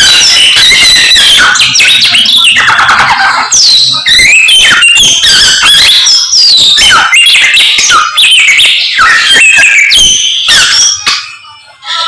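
Samyong songbird singing loudly and without pause: fast whistled and chattering phrases full of quick rising and falling notes. The song breaks off briefly near the end.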